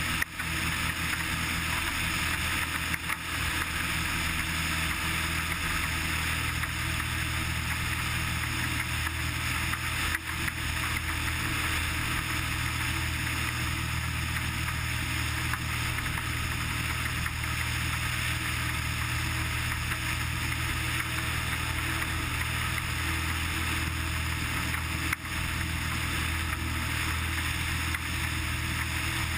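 Cessna 180's six-cylinder piston engine and propeller droning steadily in the cabin.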